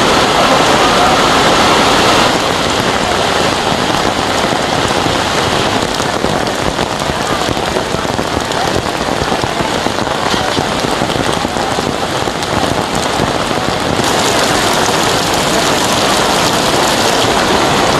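Heavy rain pouring down as a loud, steady hiss. Its texture shifts slightly about two seconds in and again around fourteen seconds.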